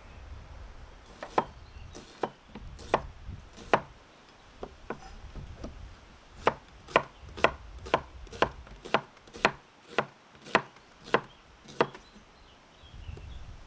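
A knife chopping food on a cutting board. A few scattered cuts come first, then a steady run of about eleven chops at roughly two per second.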